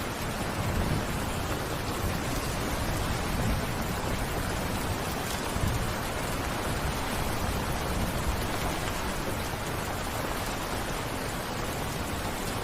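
Steady rain falling, an even hiss with a soft low rumble underneath.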